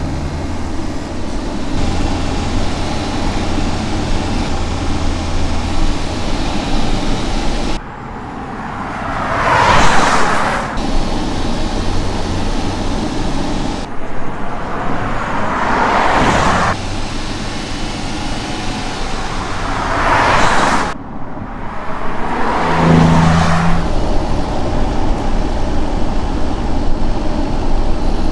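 Cars driving past, one after another: three clear pass-bys that swell and fade about 10, 16 and 20 seconds in, over a steady rush of road and engine noise.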